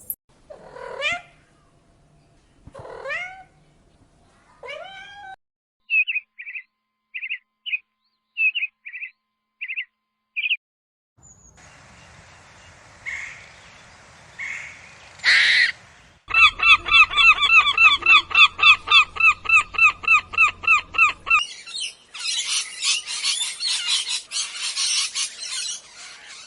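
A run of different animal calls, one after another: three rising calls, then a string of short chirps, then a fast repeated chattering call of about five notes a second, ending in a dense high buzzing.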